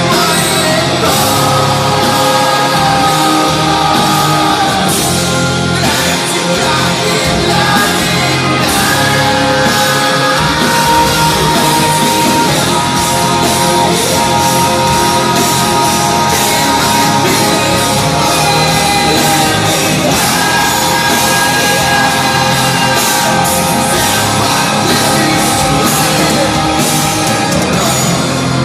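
Heavy rock band playing live in a hall, with a singer's vocals over the band.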